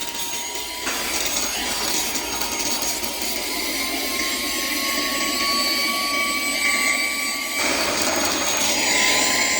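Handheld car vacuum cleaner running with a steady motor whine and air rush; the sound shifts about a second in and again near the end, and the whine rises slightly in pitch across the middle.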